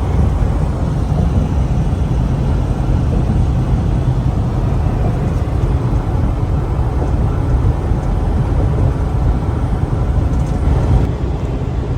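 Semi-truck running, a loud, steady low rumble of the diesel engine and road noise heard from the cab.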